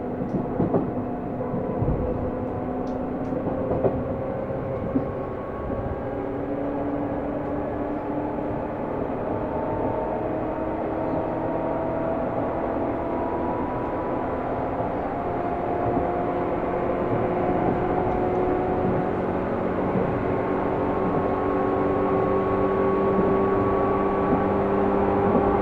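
Seibu New 2000 series electric train heard from inside the car, accelerating. Several whining tones from the inverter and traction motors rise slowly in pitch and grow louder as it gathers speed, over wheel-on-rail rumble, with a few short knocks near the start.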